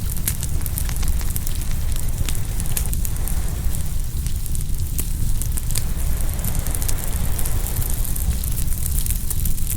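Open wood bonfire crackling, with many small sharp pops scattered throughout, over a steady low rumble of surf.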